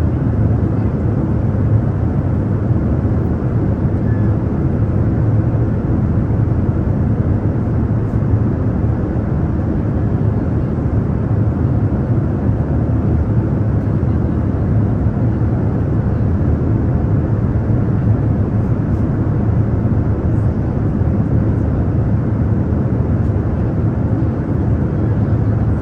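Airliner cabin noise in flight: a steady, deep rumble of engine and airflow with a faint steady hum, unchanging throughout.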